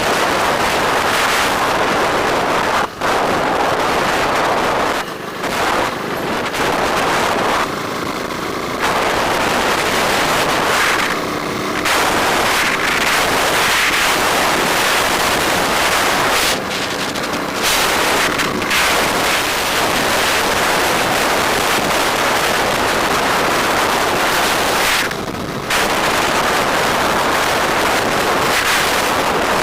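Wind buffeting the microphone of a camera on a moving motorbike: a loud, rough rushing noise with traffic and engine sound buried under it, dropping off briefly a few times.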